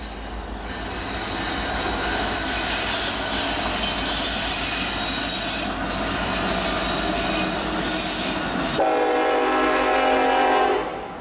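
Approaching intermodal freight train: steel wheels rumble on the rail with a thin, high wheel squeal over them. About nine seconds in, the locomotive's horn sounds one blast of about two seconds, then cuts off.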